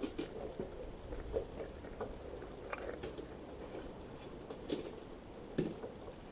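Scattered metallic clinks and knocks of hand tools and parts being handled while stripping a car engine out. The louder knocks come near the start, about three seconds in, and twice near the end.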